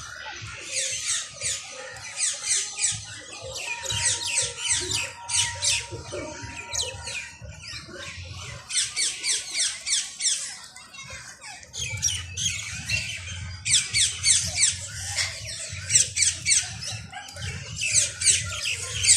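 Many small caged birds chirping and squawking in rapid runs of high, sharp calls, coming in bursts every second or two, over a low rumbling background.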